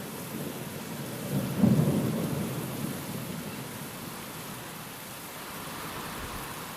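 Steady rain falling, with a roll of thunder that swells about a second and a half in and rumbles away over the next second or two.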